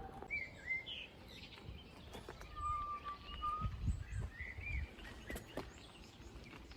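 Birds chirping outdoors: a few short up-and-down chirps near the start and again later, and a steady whistle of about a second in the middle, with low rumbling thumps around the middle.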